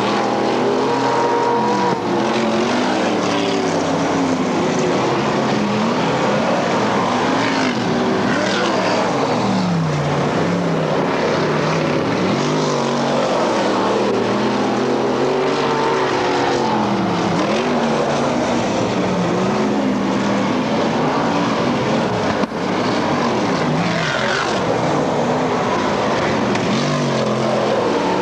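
Several dirt-track race car engines running together, their pitch repeatedly rising and falling as the cars rev up and ease off around the track.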